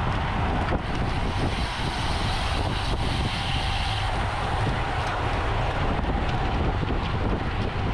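Steady wind rushing over the microphone of a camera on a racing bicycle at speed, a low rumble with tyre and road hiss, and a faint high tone for about a second roughly three seconds in.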